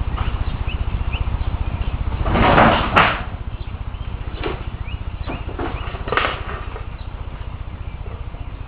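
Old tractor's engine running with a steady, rapid low exhaust pulse. A few short rushing bursts sound over it, the loudest about two and a half seconds in, ending in a sharp click, with smaller ones around four and a half and six seconds in.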